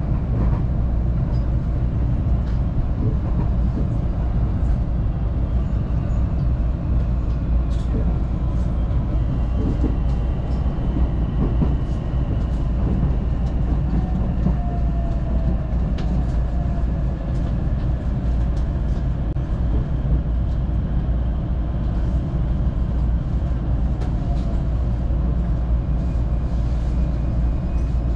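Local electric train heard from inside the carriage, running with a steady low rumble of wheels on rail and scattered faint clicks. A faint motor whine falls in pitch around the middle as the train slows for the next station.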